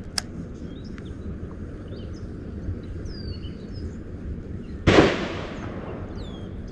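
One sudden loud splash about five seconds in: a bass striking a topwater cicada lure on the surface, a topwater blowup. Birds chirp faintly over a steady outdoor background.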